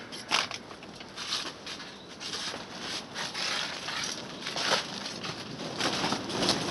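Polytunnel's polythene cover crackling and flapping in strong wind gusts, with irregular rattles and knocks from the structure, growing louder toward the end as a gust sets it rocking.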